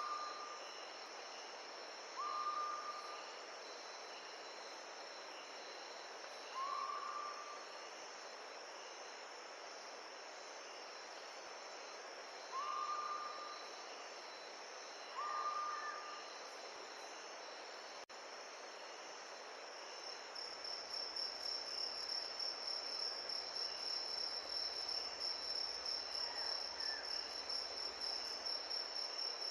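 Crickets trilling steadily over a soft, even hiss, with a louder, fast-pulsing insect trill coming in about twenty seconds in. Five short calls that sweep up and then hold, from some animal, sound in the first half.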